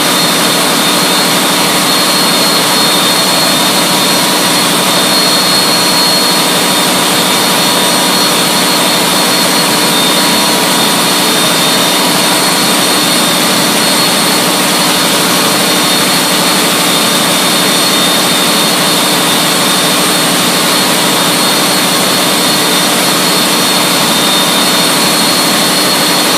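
Large stationary engine running steadily under load, heard at its exhaust outlet and flue gas duct: a loud, constant rushing roar with a steady high whine running through it.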